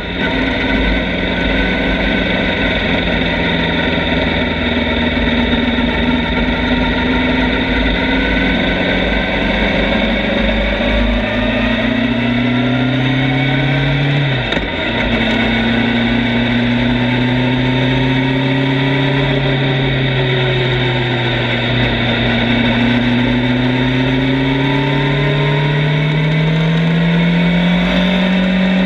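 Motorcycle engine running under way with wind buffeting the microphone. The engine pitch slowly rises and falls, with a brief break and drop in pitch about halfway through, then climbs again toward the end.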